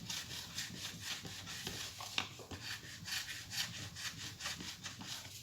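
Hot clothes iron rubbed back and forth over transfer paper on a copper-clad board, a soft scraping of repeated strokes, a few a second: the toner-transfer step of making a printed circuit board.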